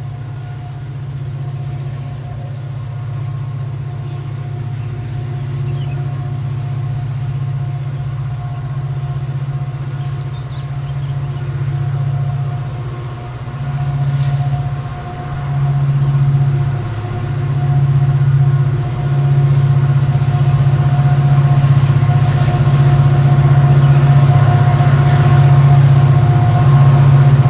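Diesel locomotive approaching, its low engine drone growing steadily louder.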